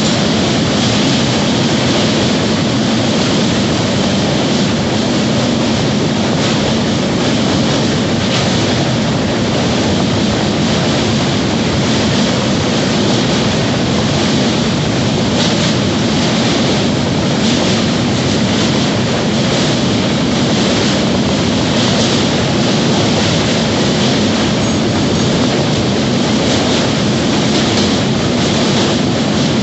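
Passenger train running steadily along the track, a loud, even rush of wheel and carriage noise.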